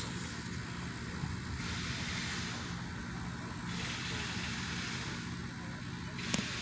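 Industrial grinding noise from a plant: a steady low hum with a harsher hiss that swells and fades roughly every two seconds, and a single sharp click near the end.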